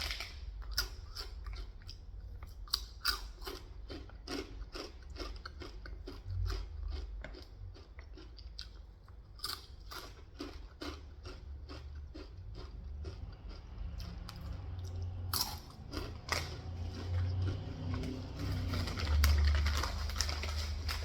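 Close-miked chewing of leftover pizza, with many small irregular clicks and crackles as the food is bitten and chewed.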